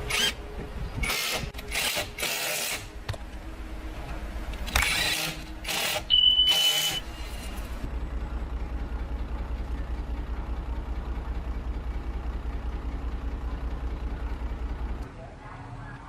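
A car engine idling with a steady pulsing rumble. Several short loud noises sound over it in the first seven seconds, and a brief high tone near the sixth second. The engine cuts off about fifteen seconds in.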